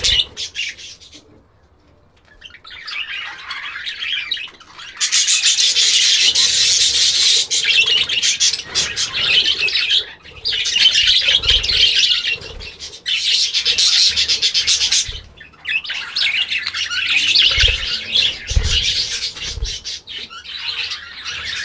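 Several birds chirping and chattering in loud, dense bouts of a few seconds each, with short pauses between them. A few low thumps come in the second half.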